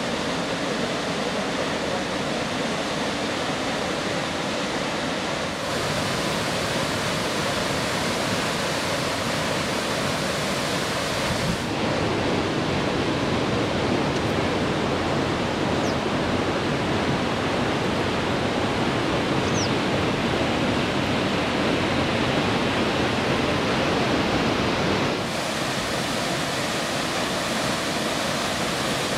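Blue Nile Falls (Tis-Issat) rushing: a loud, steady wash of falling water, whose tone changes abruptly three times as the recording cuts between spots.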